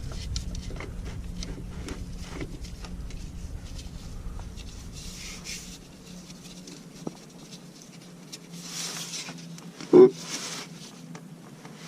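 Light clicks and handling noises of hand work on a compact tractor during an oil change, with one sharp knock about ten seconds in, over a faint steady hum.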